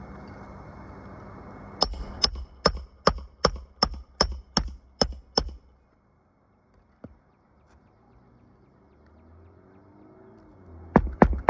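A hand hammer driving roofing nails: a run of about ten sharp, evenly spaced blows, roughly two and a half a second, that then stops. After a short pause another quick run of blows starts near the end. A steady background hum cuts off just before the first blow.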